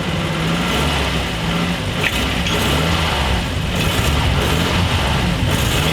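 1986 Nissan 720 pickup's Z24 four-cylinder engine running steadily just after its first start in over ten years, its pitch wavering a little. It runs without knocking or any terrible noises, though it still needs a tune.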